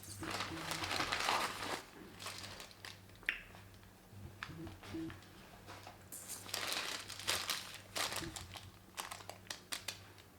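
Crinkling and rustling as something is handled, in two longer stretches, at the start and again about six to eight seconds in, with scattered clicks and taps between.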